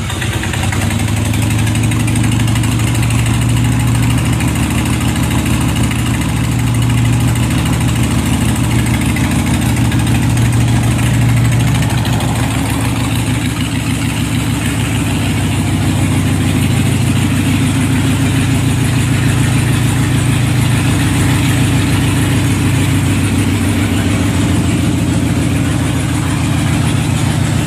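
2001 Harley-Davidson Sportster 1200 Custom's air-cooled 1200 cc Evolution V-twin idling steadily, just after a cold start.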